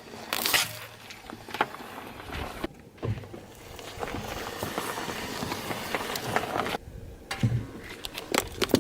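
Objects crunching and crackling as they are crushed under a car tyre, as a series of irregular sharp cracks over a low rumble. The sound breaks off abruptly twice, where one crushing clip gives way to the next.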